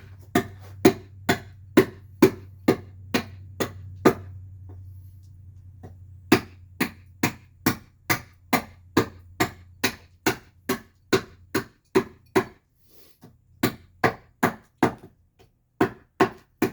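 Hand carving tool chopping into alderwood, evenly spaced strikes about two a second, hollowing out the back of a mask. The strikes pause for about two seconds a quarter of the way in, then carry on. A low steady hum sits under the first several seconds.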